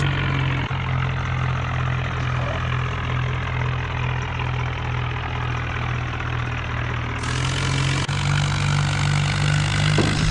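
Mahindra Arjun Novo tractor's diesel engine running steadily at low revs, stepping up slightly in pitch about eight seconds in.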